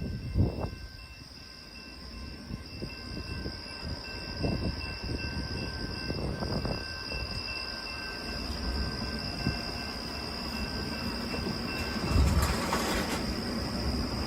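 A train rolling past: a steady low rumble of rail cars with several clanks and knocks, the loudest near the end.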